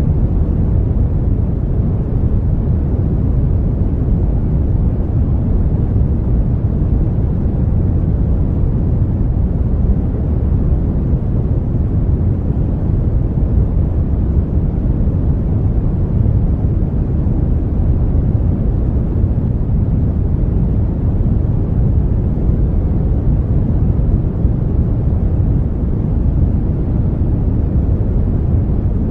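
Brown noise: a steady, even, deep rushing hiss, strongest in the low range and falling off toward the highs, with no change throughout.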